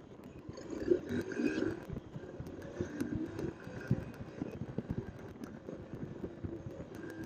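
Honda CB125F motorcycle's small single-cylinder engine running on the move. The sound is uneven and choppy rather than a smooth steady note.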